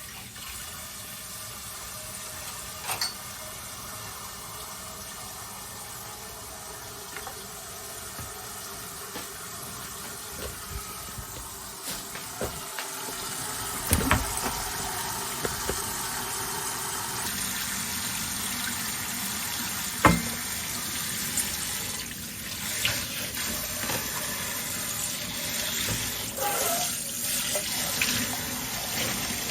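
Water running from a kitchen tap into a sink, getting louder about halfway through, with a few sharp knocks and a patch of clatter near the end.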